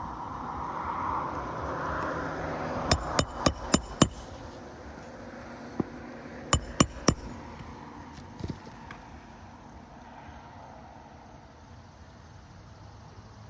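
Hammer driving roofing nails through an architectural asphalt shingle: five quick blows about three seconds in, then three more a few seconds later, with a few lighter taps.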